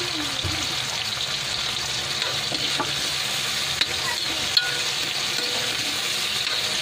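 Tomatoes, onion and garlic sizzling steadily in hot oil in a metal wok while a metal spoon stirs them. The spoon scrapes the pan and gives a few sharp clinks against it, the loudest about four and a half seconds in.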